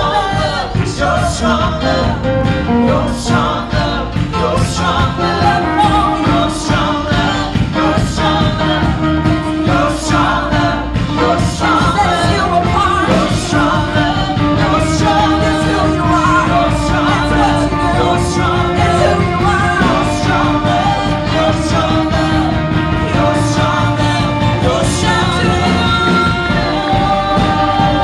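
Live praise-and-worship music: a band with a steady beat and voices singing.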